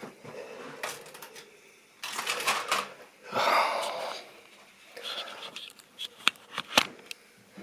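Irregular light clicking and clatter from model railway rolling stock: sharp plastic-and-metal clicks and short rattling bursts with brief pauses between, several clicks close together about two seconds in and two sharp clicks near the end.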